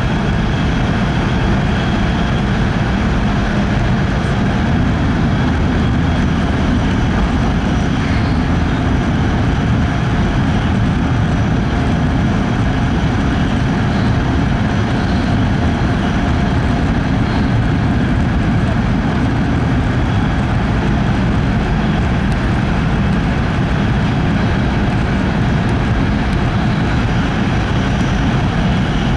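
Steady running noise heard inside the cabin of an E5 series Shinkansen on the move: a constant deep rumble with a rushing hiss over it, unchanging throughout.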